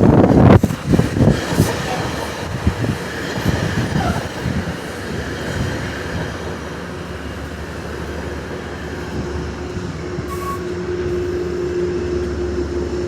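MTA locomotive 117 running on the rails: a heavy rumble with a sharp knock about half a second in, easing to a steadier running noise. A steady tone comes in near the end.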